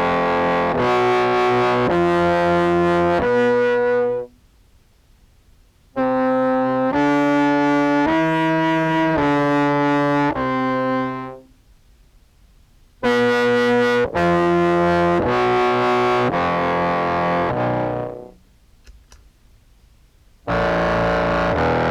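Contrabass clarinet played through an EHX POG2 octave-down preset into a Behringer Brassmaster fuzz, giving a buzzy, distorted tone an octave lower. It plays short phrases of held notes stepping from pitch to pitch, about a note every three-quarters of a second, with pauses of about two seconds between phrases.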